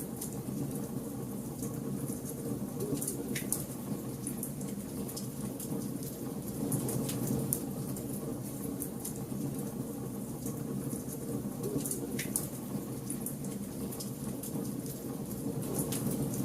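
Bonfire burning: a steady low rush of flames with irregular sharp crackles and pops.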